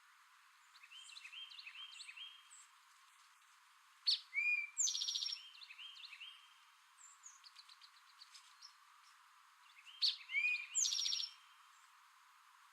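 Male eastern towhee singing its "drink-your-tea" song twice, about six seconds apart: each time a couple of sharp notes followed by a fast trill. Fainter chirping notes come in between.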